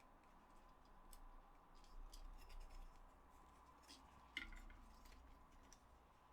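Faint, scattered small clicks and taps of plastic controller parts being handled, the sharpest click about four and a half seconds in.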